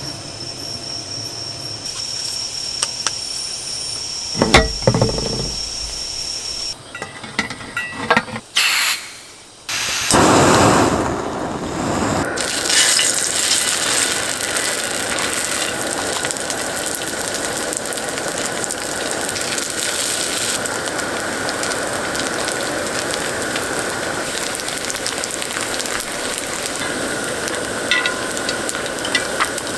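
Crickets chirping with a steady high trill for the first several seconds. After a few clicks and a short louder rush, from about twelve seconds in, oil sizzles steadily on a griddle over a gas burner as flat dumplings fry.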